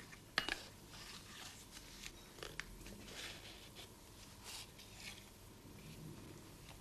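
Tablespoon scooping cocoa powder from a cardboard cocoa box: one sharp click about half a second in, then faint scrapes and rustles as the spoon digs and is tapped over the mixing bowl.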